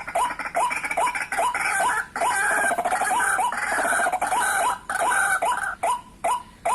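A bird calling over and over: short hooked calls about two a second, with a longer, harsher run of calling in the middle.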